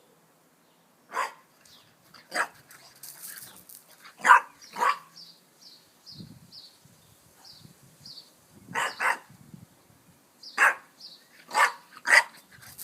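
French Bulldog puppy barking about nine times, in short single barks and quick pairs spread across several seconds: play barks aimed at a cat.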